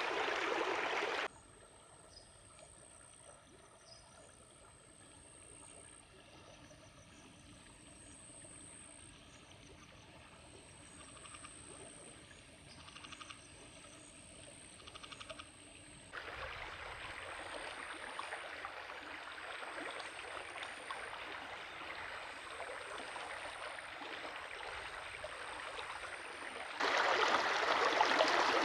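Running stream water rushing over the wadi bed, loud at first, then dropping away to a quiet stretch with faint, repeated small chirps, then rising again and loudest near the end.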